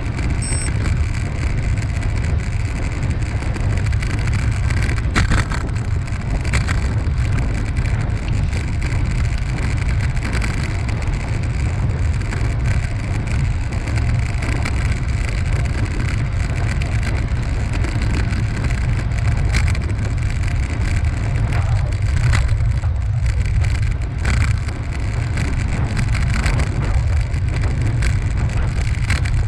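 Steady low rumble of wind buffeting the microphone of a camera carried on a moving ride, with a faint hiss of movement and a few light clicks.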